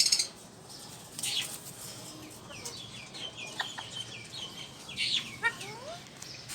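Cage birds calling in an aviary: a string of short, quick high chirps, with a few whistled notes sliding up and down near the end.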